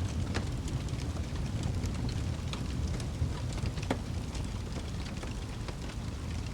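Fireplace sound: a wood fire burning with a steady low rumble and scattered, irregular crackles and pops, one sharper pop about four seconds in.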